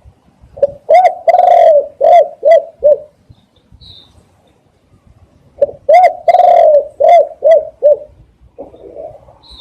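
Spotted dove cooing: two phrases of low coos about five seconds apart, each of five or six notes with a longer drawn-out second note. Brief high chirps from a small bird come in between.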